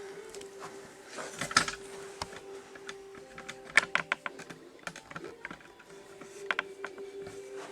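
Light clicks and taps of cork roadbed and model track being handled and pressed into place, with a cluster of sharp clicks about four seconds in. A faint steady tone runs underneath.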